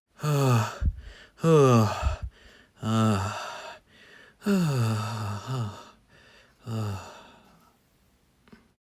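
A man's voice letting out five drawn-out sighs, each falling in pitch, spread over about seven seconds.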